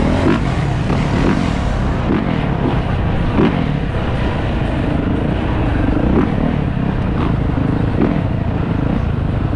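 Motorcycle running steadily on the move, a loud continuous rumble.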